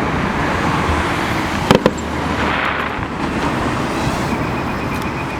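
Fireworks bursting: a quick pair of sharp bangs about two seconds in, over steady traffic noise.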